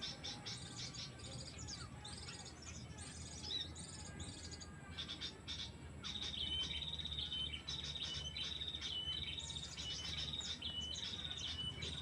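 Small songbirds chirping and calling in quick high notes. From about halfway, one high call with a drop in pitch is repeated again and again.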